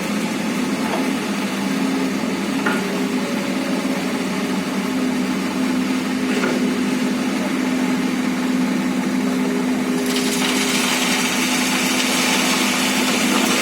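Excavator's diesel engine running steadily under load, with a few short knocks; about ten seconds in, a hiss joins it.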